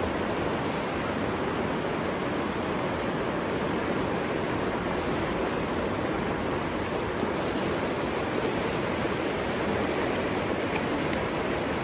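River water rushing steadily, an even, unbroken sound.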